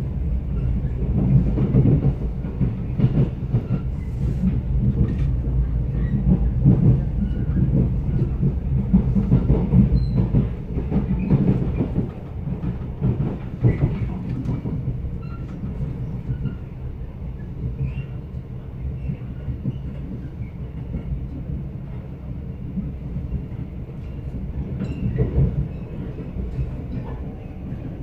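Mugunghwa passenger train running, heard from inside the carriage: a steady low rumble with scattered clicks and knocks from the wheels and car body, easing a little about twelve seconds in.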